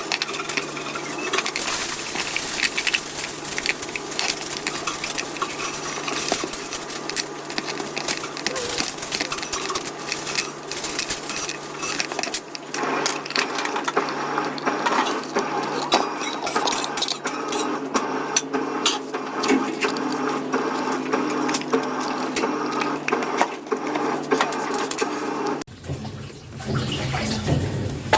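Rapid clicking and clinking of small hard parts and tools being handled, over a steady low hum. The clatter gets busier about halfway through.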